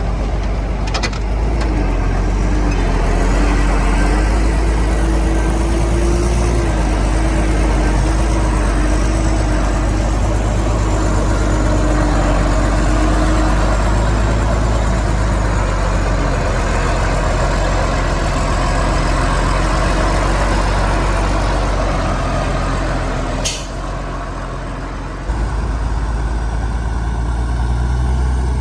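Heavy diesel earthmoving machinery running steadily and loud, with a wavering whine over the engine. Sharp clicks come near the start and again about 23 seconds in, followed by a brief dip in level before the sound returns.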